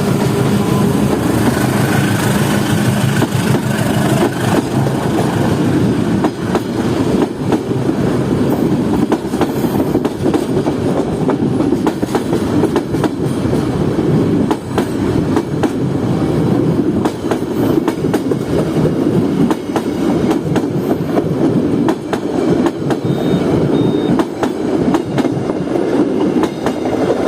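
Passenger train running through or along a station platform close by: a steady rumble of wheels and carriages with repeated clickety-clack of wheels over rail joints.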